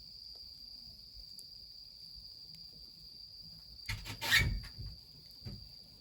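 Night insects trilling in a steady high, even tone, over a faint low background. About four seconds in comes a short cluster of crackles and knocks from the wood fire, the loudest sound.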